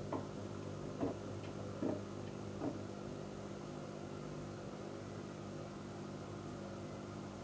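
Electrolux washing machine running with a steady motor hum, with four light knocks about a second apart in the first three seconds.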